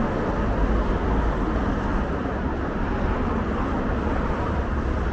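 Steady city street traffic noise, an even rumble without distinct events.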